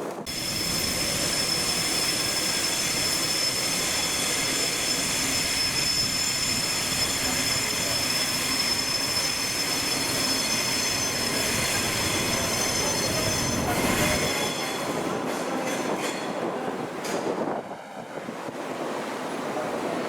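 A rail vehicle running, with several steady high-pitched tones over a rumble. The tones stop about 14 seconds in and the sound drops away briefly near the end.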